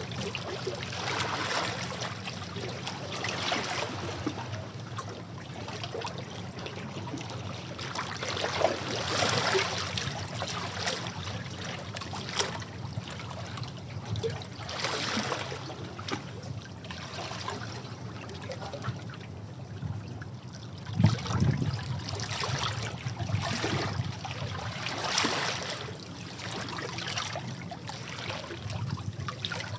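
Sea waves washing over rocks: a continuous wash of water with a fresh surge every few seconds, the loudest around two thirds of the way through.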